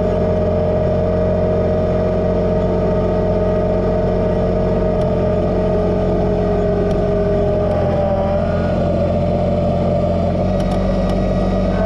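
Kubota BX2380 subcompact tractor's three-cylinder diesel engine running steadily under load, with a whine whose pitch shifts about eight seconds in.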